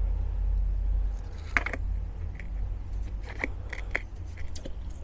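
Scattered light clicks and knocks of suspension parts and hand tools being handled during a rear shock absorber swap, over a steady low rumble.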